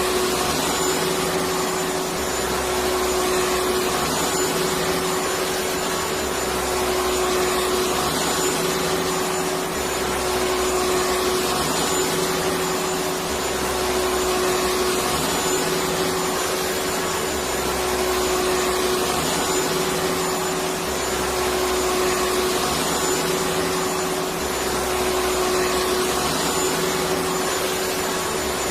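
Electric vacuum cleaner running steadily: an even motor and airflow noise with a steady hum, its low end pulsing slightly about every three seconds.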